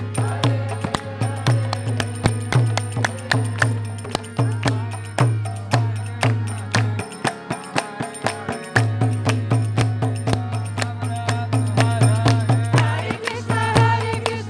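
Devotional kirtan music: hand cymbals keep a fast, even beat over a low sustained tone that drops out for a moment around the middle. Chanting voices come in near the end.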